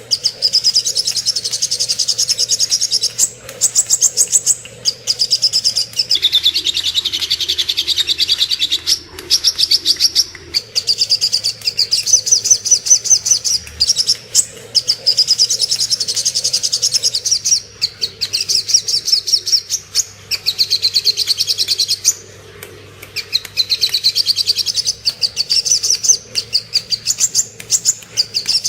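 Sogok ontong (spiderhunter) singing: long, rapid trains of high, sharp repeated chirps in phrases of one to three seconds with short breaks, pausing briefly a little over two-thirds of the way through.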